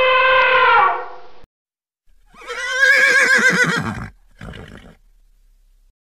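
An elephant trumpeting, a long brassy call that drops in pitch and dies away about a second in. After a short silence comes a different animal's call with a quavering, wavering pitch lasting about two seconds, then a brief softer sound.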